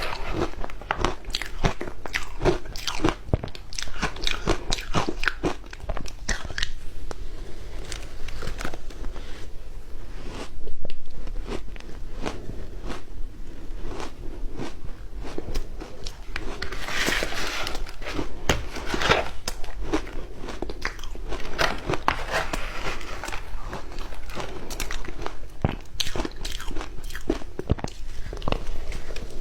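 Ice being bitten and chewed close to the microphone: a dense, irregular run of crunches, with one louder crunch about eleven seconds in.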